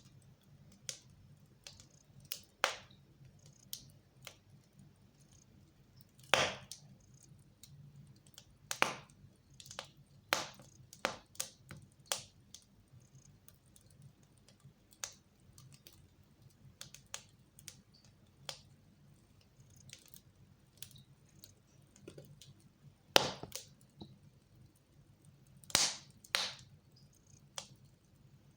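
Wood fire crackling in a fireplace: irregular sharp snaps and pops, a few of them louder, over a faint low hum.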